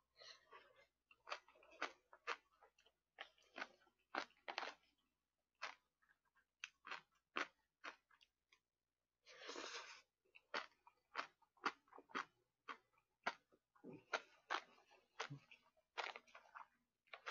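A person chewing food close to the microphone: an irregular string of short wet smacks and clicks, with a longer rushing sound about nine and a half seconds in.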